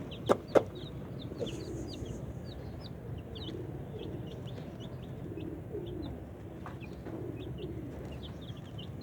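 Chicks peeping over and over in short high cheeps, with lower clucking underneath. Two sharp knocks come about half a second in.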